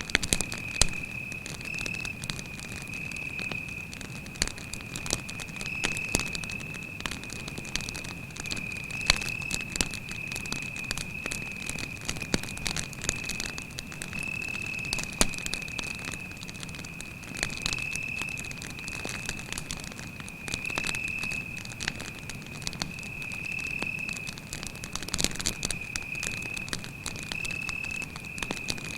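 Wood campfire crackling, with frequent sharp pops and snaps, over a cricket's unbroken high-pitched trill held at one pitch.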